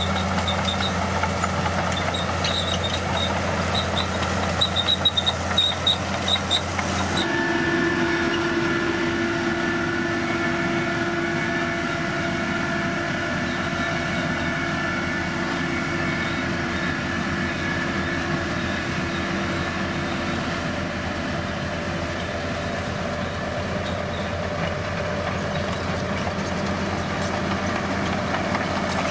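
Bulldozer's diesel engine running steadily under work, with short high-pitched ticks in the first part. About seven seconds in the sound changes abruptly to a steadier engine note with a held mid-pitched hum.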